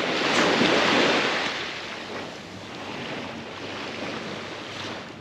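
Ocean waves breaking and washing onto the shore: one surge swells up about half a second in and fades away over the next couple of seconds.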